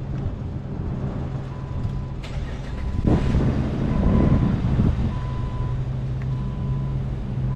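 A steady low vehicle engine hum, with a series of short single-pitch electronic beeps starting about one and a half seconds in. A louder rush of noise rises and fades between about three and five seconds.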